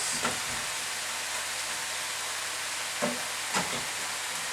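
Chicken and vegetables sizzling in oil in a hot stir-fry pan, a steady frying hiss, with a couple of short knocks or scrapes of stirring a little after halfway.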